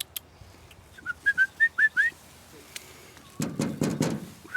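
A quick run of about six short rising whistled notes, each a little higher than the last. A few seconds in comes a rough rushing noise lasting about a second.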